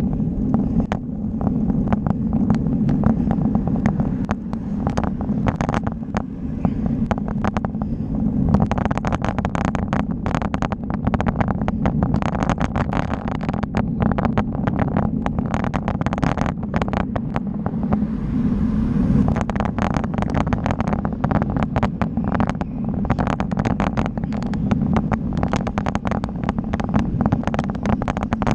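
Riding noise from a moving bike: a steady low rumble with frequent rattling clicks throughout.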